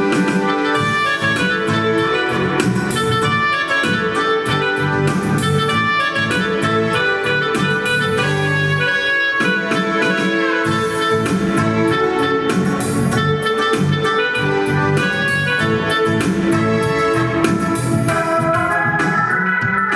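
Roland E-X20 arranger keyboard being played: a melody over chords and a bass line, in organ-like tones, with a steady rhythm accompaniment.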